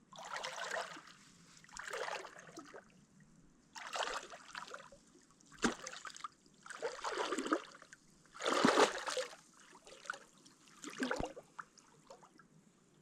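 Lake water splashing in irregular bursts, about one to two seconds apart, as a person bathes in it; the last splash comes a little before the end.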